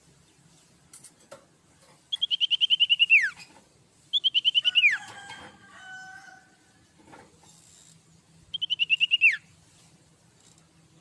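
Common iora (sirtu) singing three phrases, each a fast run of repeated high notes ending in a quick falling whistle. They come about two seconds in, again about four seconds in, and near the end.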